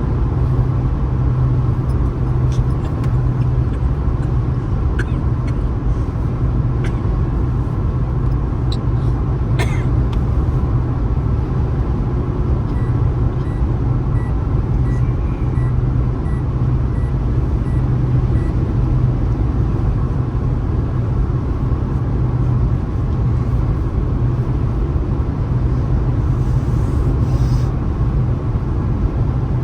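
Car driving on a highway: steady road, tyre and engine noise with a low drone. A few light ticks come in the first ten seconds, and a faint run of evenly spaced beeps sounds for several seconds midway.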